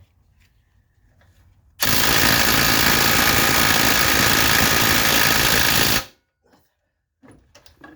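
A pneumatic impact tool on a suspension bolt, running in one loud, even burst of rapid hammering and air hiss for about four seconds, starting and stopping abruptly.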